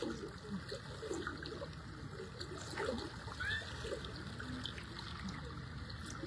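Floodwater flowing in a steady rush, with small splashes.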